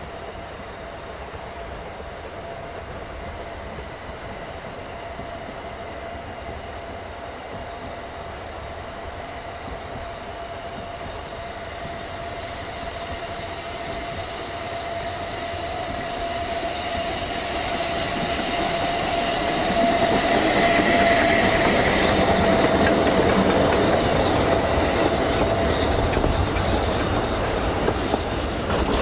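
Steam-hauled train approaching and passing, its running noise and wheel clatter growing steadily louder over about twenty seconds and staying at its loudest for the last several seconds, with a steady high ringing tone throughout.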